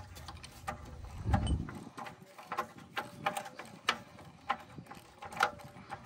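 Irregular metallic clicks and clanks from hand tools on a car's exhaust hardware as the bolts and hangers are worked loose. Several clanks ring briefly, and there is a low rumble about a second and a half in.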